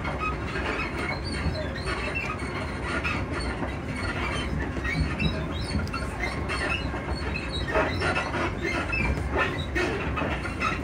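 Inside the passenger saloon of a Class 334 electric multiple unit in motion: a steady low rumble from the wheels and bogies on the track. Scattered creaks, clicks and knocks from the suspension and body come through it, more of them from about eight seconds in.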